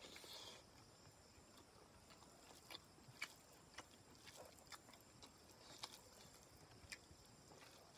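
Faint eating sounds: a mouthful of rice and chicken curry with red king chilli being chewed, with scattered small sharp clicks.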